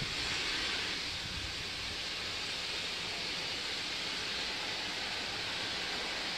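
Sandblasting: a compressed-air blast nozzle throwing abrasive sand, making a steady hiss.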